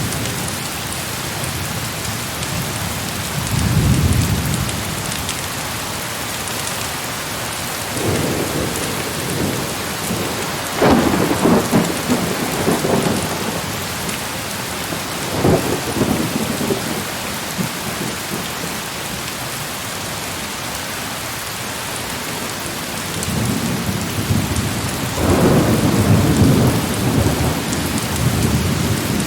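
Heavy rain falling steadily, with thunder rumbling in several rolls: one about four seconds in, a longer one from about eight to thirteen seconds, and the longest near the end.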